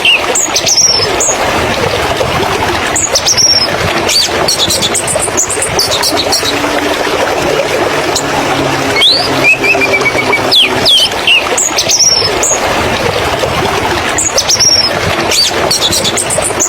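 Prothonotary warbler singing: short bursts of quick, high, repeated notes every few seconds, over a steady loud background rush.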